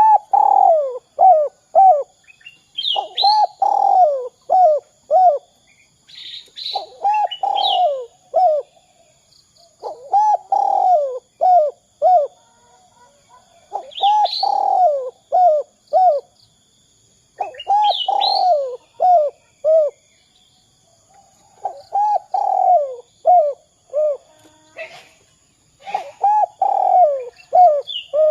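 Spotted dove (derkuku) singing its cooing song over and over, a phrase about every four seconds: each phrase is a longer opening coo followed by three or four short coos. Small birds chirp higher up between the phrases.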